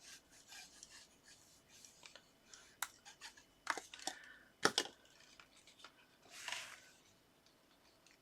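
Paper and card being handled and pressed into place: faint rubbing and rustling with a few sharp taps, the loudest nearly five seconds in.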